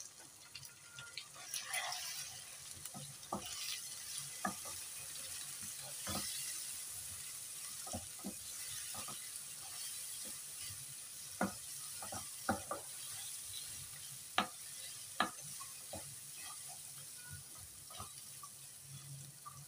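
Onion, tomato and spice masala frying in oil in a nonstick wok, with a steady sizzle as a wooden spatula stirs it. Irregular knocks and scrapes of the spatula against the pan.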